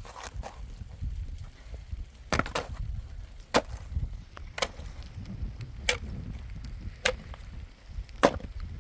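Wood being chopped: a series of sharp blade strikes into wood, about one a second, with the loudest of them about two seconds in.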